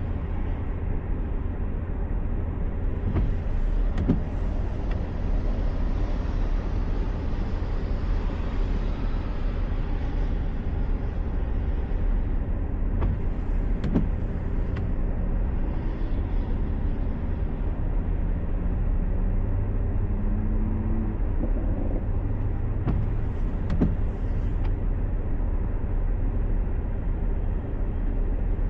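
Car driving on a highway: steady low road and engine rumble, with a brief sharp click about every ten seconds.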